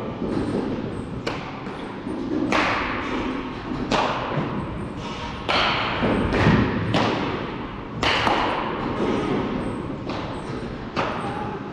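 Baseballs being struck with a bat in batting practice: a sharp knock every second or so.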